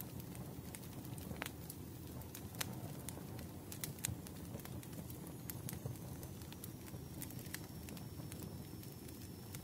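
Wood fire crackling in a fireplace: a steady low rush of flames with irregular sharp pops and snaps.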